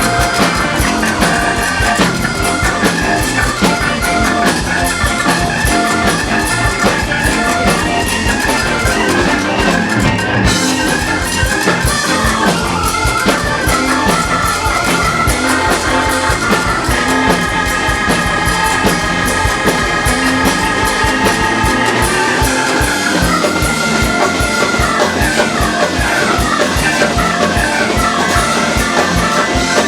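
Live rock band playing an instrumental passage: a drum kit keeps a steady beat under electric guitar lines, with long held notes about two-thirds of the way through.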